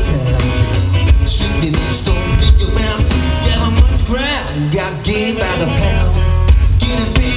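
Live rock and pop covers band playing a song: steady drums, a heavy bass line, guitar and a singer, with a sliding vocal or guitar run about halfway through.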